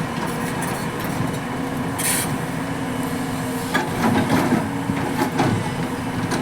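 Excavator's diesel engine running steadily under load, with a brief hiss about two seconds in and some irregular knocks and clanks a little later.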